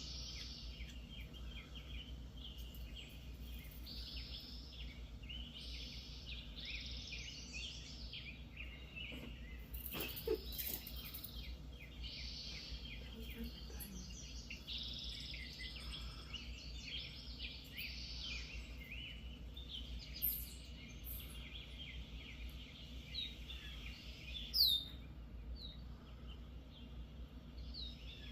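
A flock of small birds chirping and twittering continuously, with several sharp, falling whistled calls in the last third, the loudest just before the end. A steady low hum lies underneath, and a single short knock comes about ten seconds in.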